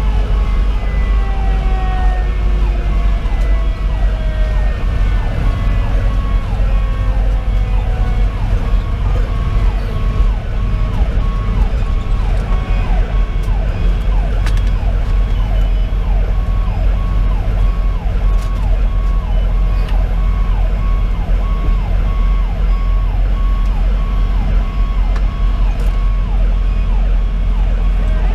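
Fire engine's Detroit Series 60 diesel running under way with its sirens sounding: long, slowly falling tones over the first few seconds, and rapid repeating sweeps throughout.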